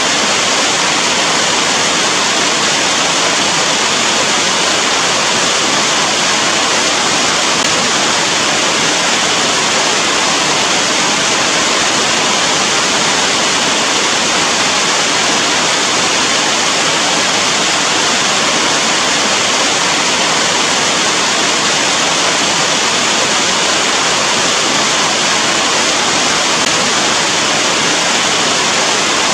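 Steady rain falling, a dense, even hiss that never lets up.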